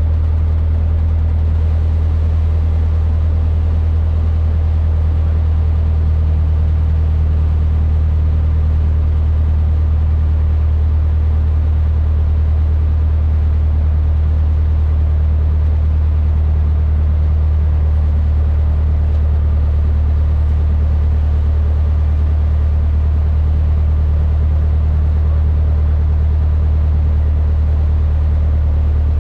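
Cessna 152's four-cylinder Lycoming engine and propeller running steadily, a loud, deep, even drone heard from inside the cockpit.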